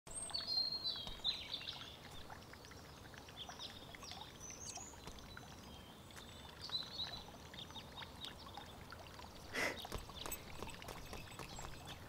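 Faint birds chirping here and there over a soft, steady background hiss, with a brief swish a little under ten seconds in.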